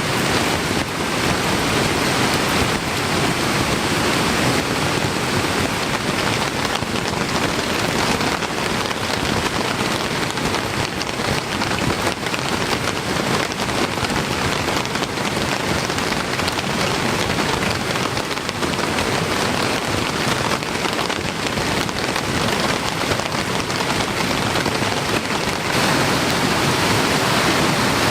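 Heavy rain falling steadily, with many drops pattering on a surface.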